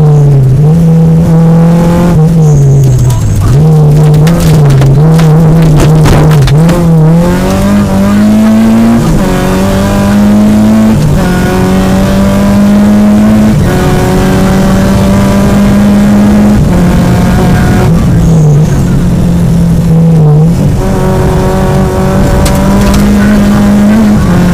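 Peugeot 205 GTI rally car's four-cylinder engine at full effort, heard from inside the cabin. The engine note climbs and drops as the throttle is worked through bends, then rises through the gears with clear shifts on the straighter road.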